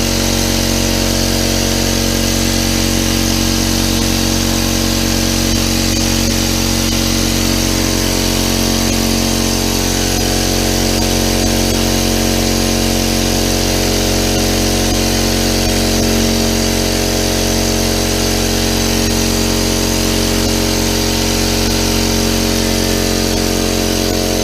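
Central Pneumatic electric air compressor running steadily, its motor and pump filling the tank as pressure builds past 50 PSI.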